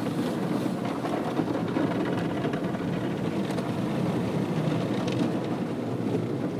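Automatic car wash running over the car, heard from inside the cabin: a steady, dense churning of water spray and wash equipment against the body.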